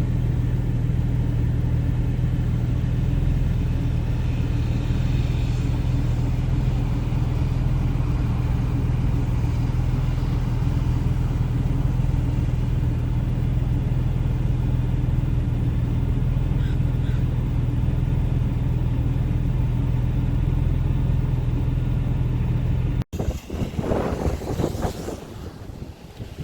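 Boat engine running steadily at a constant pitch, a low drone. Near the end it cuts off suddenly, and wind buffets the microphone.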